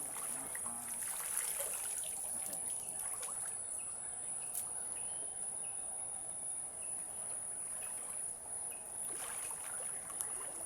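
Stream water trickling and flowing, with a steady high-pitched insect drone over it.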